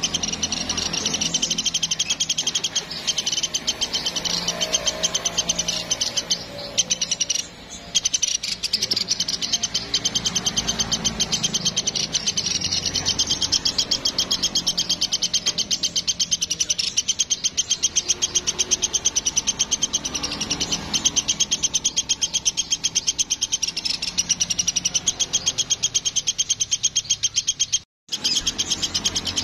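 Platuk sampit bird singing a rapid, unbroken trill of high chirps, many a second, over a softer low background; the song cuts out for an instant near the end.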